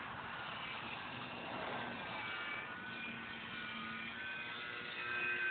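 Faint whine of a large foam RC airplane's motor and propeller flying overhead, a steady hum of several tones that waver slightly in pitch as it moves.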